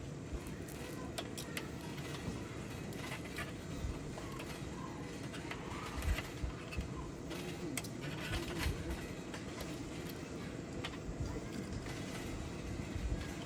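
Meat sizzling on a grill over a campfire, a steady hiss with scattered pops and crackles.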